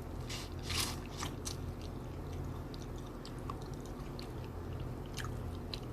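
A person chewing food close to the microphone, with scattered wet mouth clicks and smacks, most of them in the first second and a half and again near the end, over a low steady hum.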